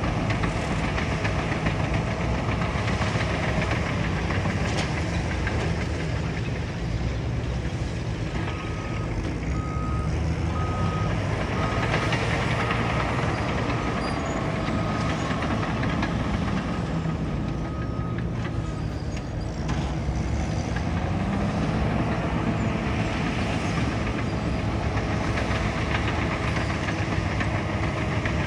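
Heavy diesel machinery running steadily, a bulldozer at work. A reversing alarm beeps in an even series, about one beep every three-quarters of a second, for roughly ten seconds in the middle: a machine backing up.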